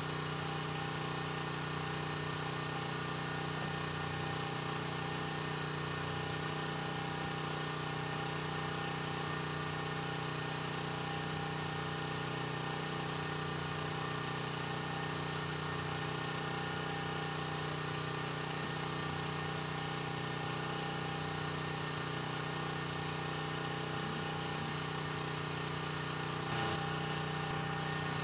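A boat's engine running at a steady, unchanging speed, with one faint knock near the end.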